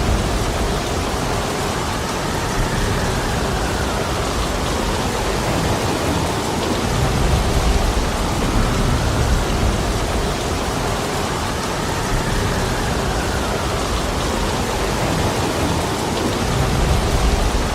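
Heavy rain falling steadily in a dense, even hiss, with deep low rumbles swelling up about seven seconds in and again near the end.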